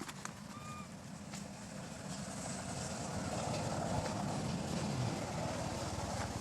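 A motor vehicle passing, its low rumble growing louder to a peak about four to five seconds in and then easing off. A short high chirp is heard under a second in.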